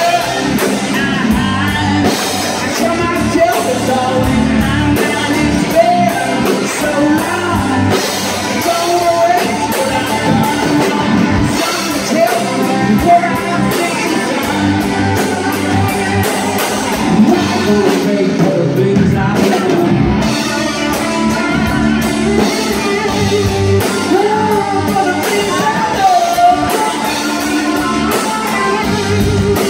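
Live rock band playing a song: a lead singer over electric guitars and a drum kit.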